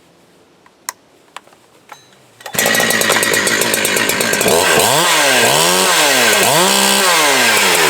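Husqvarna 365 chainsaw built up with a 372XPW top end, a two-stroke, being restarted warm. After a few faint clicks it catches suddenly about two and a half seconds in and runs, then is revved down and up about three times.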